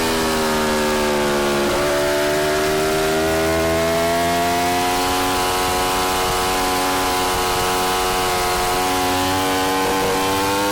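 Yamaha R1's inline-four engine running through an Akrapovic exhaust at mid revs. The pitch dips sharply just under two seconds in, then climbs slowly and holds steady.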